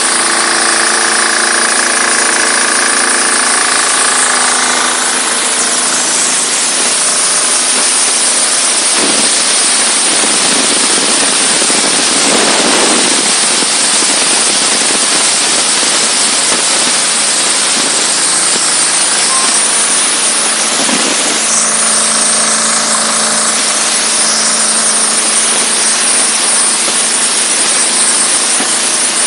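Diesel-engine-driven high-pressure washer running: a steady engine drone under the loud hiss of the high-pressure spray, with the hiss alone dominating through the middle.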